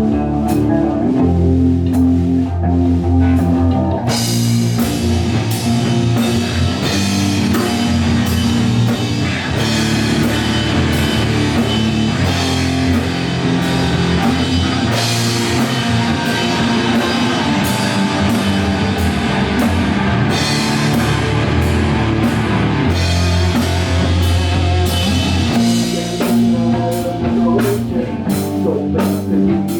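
Heavy metal band playing an instrumental passage live, with electric guitars, bass and drum kit and no singing. It starts sparse and the full kit with cymbals comes crashing in about four seconds in.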